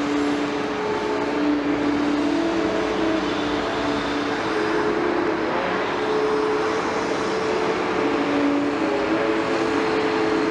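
Excavator working, its diesel engine and hydraulics running steadily with a whine that wavers up and down in pitch.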